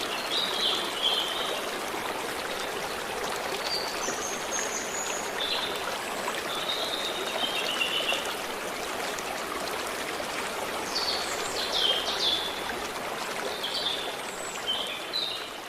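A stream running steadily, with small birds chirping and singing in short phrases over it throughout.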